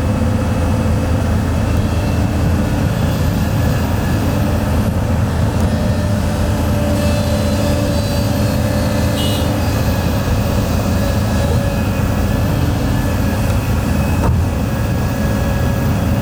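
Heavy diesel engine of earthmoving equipment running steadily with a deep, continuous rumble, and a single short knock about fourteen seconds in.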